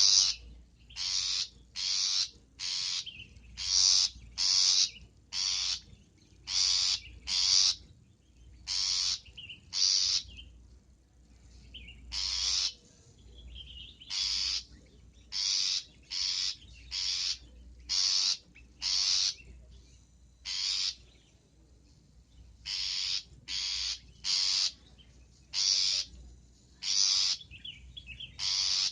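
Long-tailed shrike (cendet) giving harsh calls: short notes repeated one or two a second, often in pairs, with a few brief pauses between runs.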